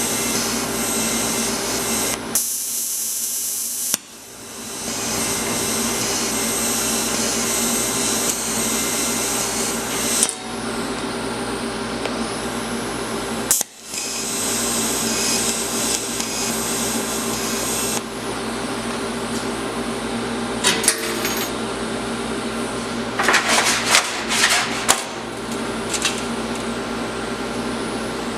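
A power tool running steadily during metalworking, heard in several edited stretches, with a few sharp metal clanks about 23 to 25 seconds in.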